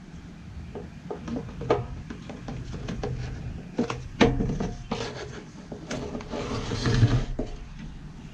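Hand-assembly noises from a chainsaw being put back together: irregular clicks and knocks of parts being handled and fitted, with a stretch of rubbing and scraping near the end.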